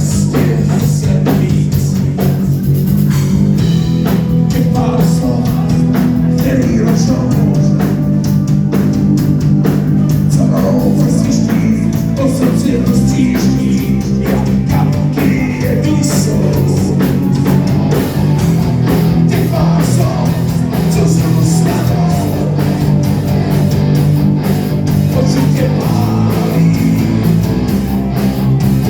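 Live rock band playing loudly: electric guitars, drums and a lead singer.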